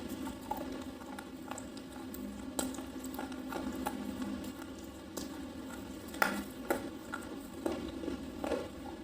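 Slate pencil being chewed: irregular crisp crunches about once a second, the loudest around six seconds in, over a steady low hum.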